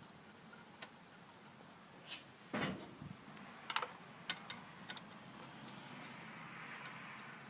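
Hand work on a golf cart engine with the engine stopped: scattered clicks and light knocks of tools and parts, with one louder thump about two and a half seconds in and a faint rustling near the end.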